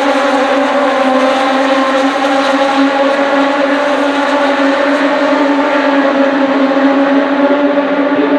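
Racing motorcycle engine running at steady, high revs, an even pitched drone with hardly any change in pitch.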